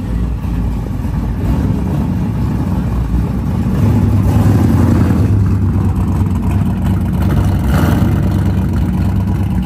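A show car's engine, just started, running with a steady low rumble that grows louder about four seconds in and holds there for a few seconds.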